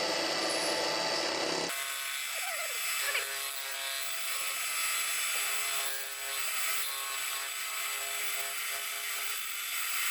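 Valve-seat boring machine running, its cutter machining the aluminium cylinder head: a steady whirring with several thin steady tones. The sound changes abruptly just under two seconds in.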